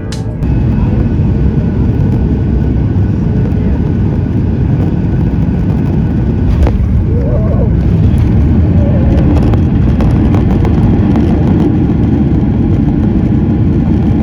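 Boeing 737-800 cabin noise during the landing roll: a loud, steady, deep rumble of engines and wheels on the runway that cuts in abruptly about half a second in.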